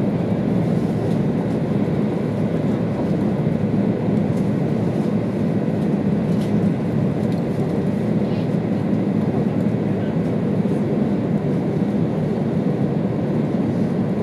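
Steady running noise of an E2 series Shinkansen at speed, heard inside the passenger cabin: an even low rumble of wheels on rail and air rushing past, with a few faint ticks now and then.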